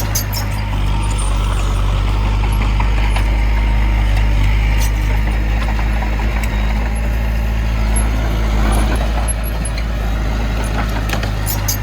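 Heavy diesel engine of construction machinery running steadily, with a few sharp knocks shortly after the start and again near the end.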